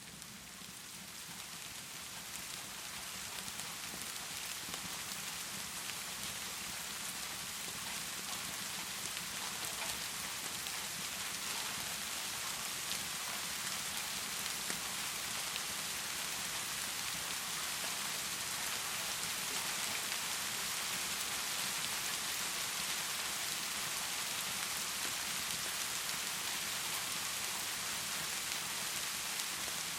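Heavy rain pouring steadily, with scattered drop ticks; it fades in over the first few seconds and then holds level.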